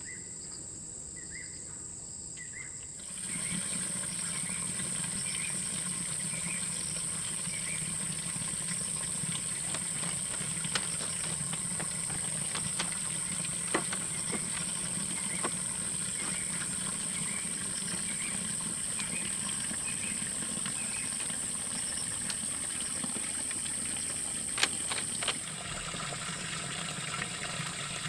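Insects chirring in a steady high-pitched buzz, with short chirps repeating about once a second and a low hum underneath. The buzz grows louder about three seconds in and eases near the end.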